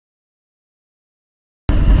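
Dead silence, then about 1.7 s in, loud wind rush and motorcycle riding noise cut in suddenly.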